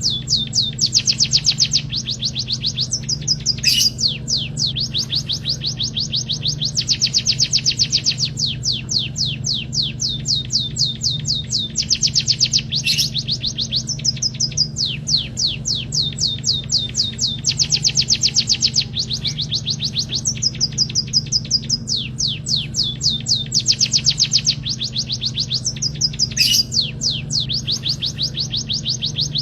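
An emprit kaji singing rapid trills of high, quick-fire notes in phrases of a second or two with short breaks, over a steady low hum.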